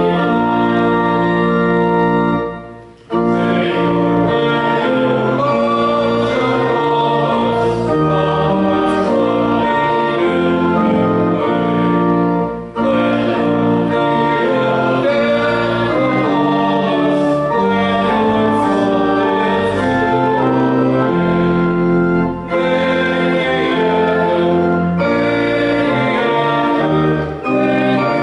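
Church organ accompanying congregational singing of the closing hymn, held chords with short breaks between phrases.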